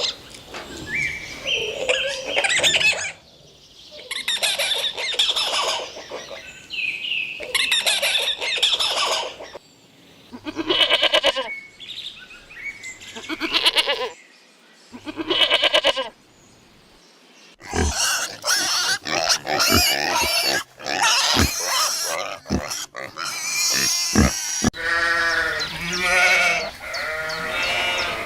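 Farm animals calling in a series of short, separate bleats and squeals, some with a wavering pitch, with a few clicks and knocks between calls in the second half.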